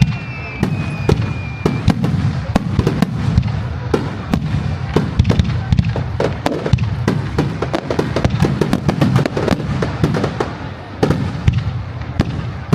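Aerial fireworks shells by Kagiya bursting in a rapid barrage: many sharp bangs and crackles over a continuous low rumble of booms. A thin high whistle fades out in the first two seconds.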